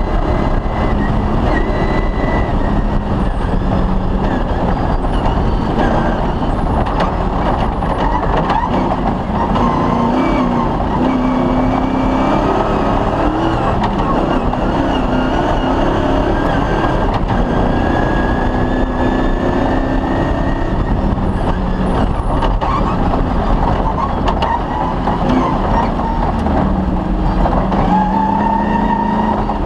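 Off-road rally vehicle driven hard through a cross-country special stage. The engine pitch rises and falls over a constant loud rumble of road noise, rattling and stone strikes.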